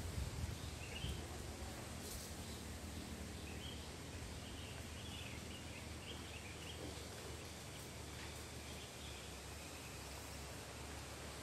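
Steady wind rumble and rustle outdoors, easing a little after the first second, with faint high chirping calls scattered through.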